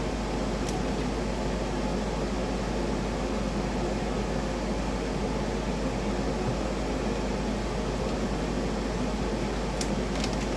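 Steady whirring of a fan with a low hum underneath, with a few light clicks near the end.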